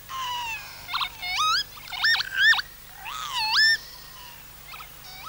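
Northern lapwing's wheezy, whistled display song: a run of slurred notes that swoop down and up, for about four seconds, followed by a few fainter notes near the end.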